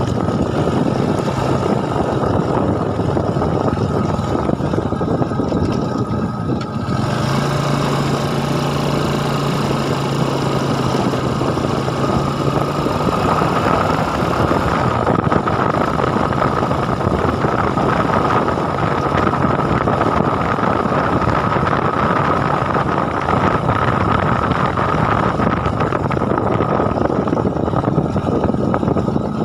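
Engine running steadily with a constant low hum, under a broad rushing noise.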